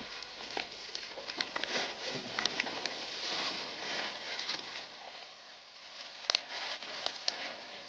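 Steady rustling and crackling of dry leaves and twigs on a forest floor, with scattered sharp snaps; the loudest snap comes about six seconds in.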